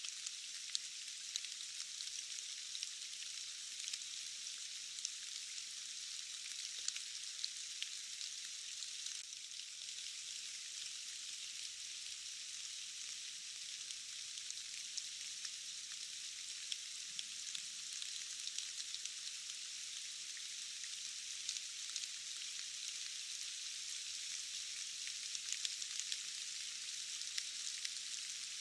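Steady rain falling, a high, even hiss dotted with the small ticks of individual drops striking leaves and surfaces.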